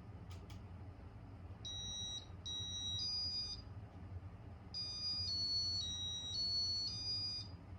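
A Casablanca ceiling fan's control board plays a sequence of electronic beep tones as its Safe Exit mode is set: first two short beeps and a third at a higher pitch, then after a pause a run of five stepped tones going up and down in pitch. Under the beeps, the fan's motor gives a steady low hum on speed 2.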